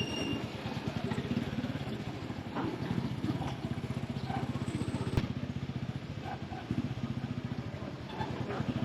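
Small motorcycle engine of a Filipino motorized tricycle running steadily under way, heard from inside the sidecar, with one sharp click about five seconds in.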